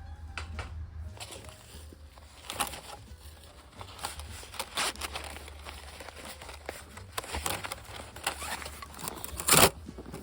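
Crinkling and rustling handling noises with irregular scattered clicks, and one louder knock about nine and a half seconds in.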